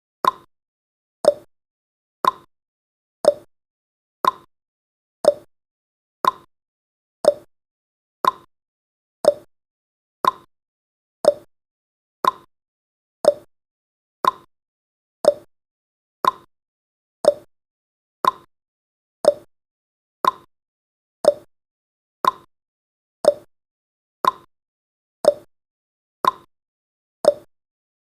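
Countdown timer's ticking sound effect: a short, sharp tick with a quick decay, repeating steadily once a second to mark each passing second.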